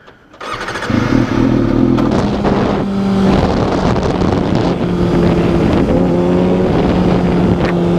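Kawasaki Ninja 250R parallel-twin engine with a slip-on exhaust pulling away and then running steadily under way, mixed with heavy wind rush on the helmet microphone. Its note breaks briefly about three seconds in.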